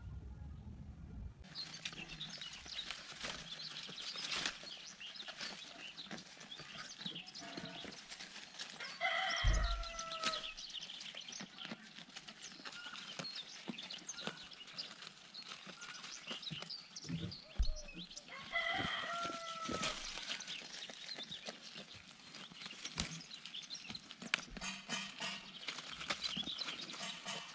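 A bird calling twice, about nine seconds apart, each call short and pitched with a falling end, over scattered clicks and rustling.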